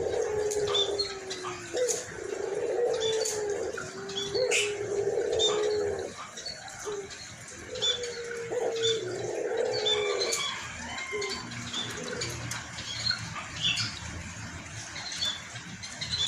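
White Barbary dove (ringneck dove) cooing over and over in low, rolling coos with a hoarse voice, the coos stopping about two-thirds of the way in. Small birds chirp faintly throughout.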